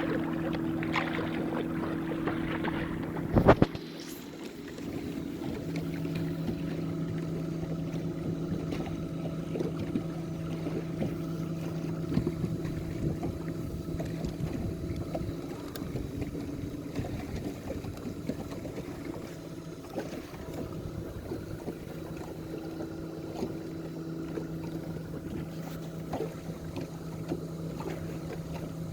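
A boat motor running steadily at slow trolling speed, a constant hum over water and wind noise. There is one loud knock about three and a half seconds in, after which the lower note of the hum drops out for a couple of seconds and then comes back.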